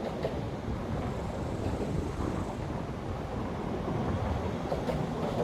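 Steady low rumbling noise with no distinct events, of the kind left by wind on a microphone or a moving vehicle.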